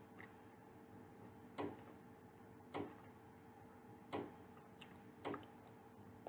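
Close-miked chewing of a bakery pastry: faint, short crunching clicks about every second and a quarter, five in all, over a steady low electrical hum.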